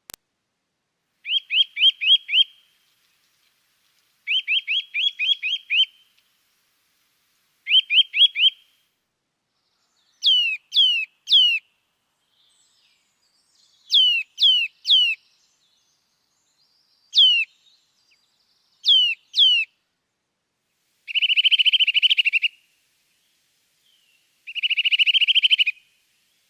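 Small songbird singing in short phrases of three to six quick chirps, with pauses of one to two seconds between phrases. Midway through, the notes become quick downward-sliding whistles. The last two phrases, near the end, are longer buzzy trills.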